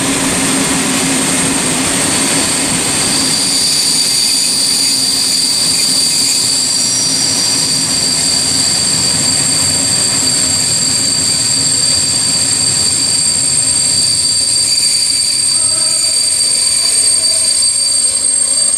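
Steady, loud mechanical running noise with a low rumble, and two high squealing tones held throughout that grow stronger after a few seconds.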